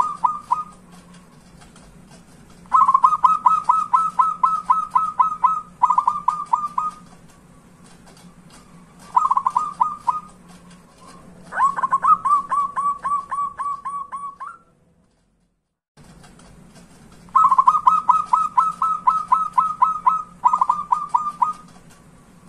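Zebra dove (perkutut) cooing in rapid staccato trains of short notes, several bouts of one to three seconds with pauses between. Over a faint low hum; about two-thirds through, the sound drops to dead silence for a second or two, then the same bouts start again.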